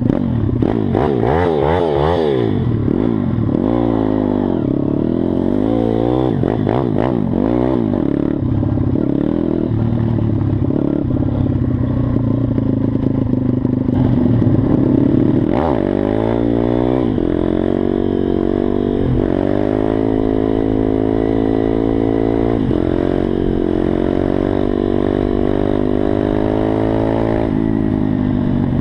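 Mojo KLX 160 supermoto pit bike's small single-cylinder four-stroke engine revving hard, its pitch swinging up and down over the first several seconds. In the second half it climbs repeatedly, dropping in pitch at each gear change as the bike accelerates through the gears.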